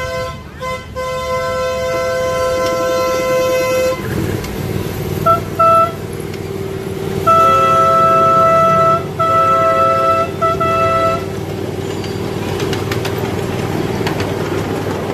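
Miniature train horn sounding: a long blast that ends about four seconds in, two short toots, then a run of long and short blasts. Under the later blasts a ride-on miniature train rumbles along the track.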